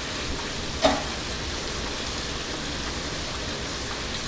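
Ground meat sizzling steadily as it fries in a pan, with one short clink, like a utensil against the pan, about a second in.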